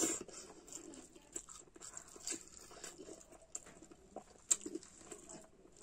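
A person eating rice and fried egg by hand: chewing with wet lip smacks and small mouth clicks, and the squish of fingers in the food. The loudest sound is the mouthful going in at the very start.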